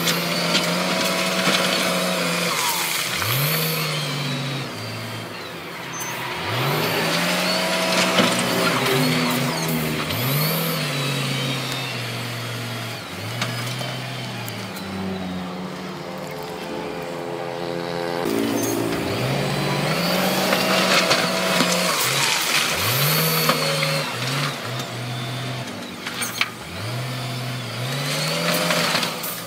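Heavy-equipment diesel engine revving up and easing off over and over, rising in pitch, holding, then dropping every two to three seconds, with a steadier stretch near the middle.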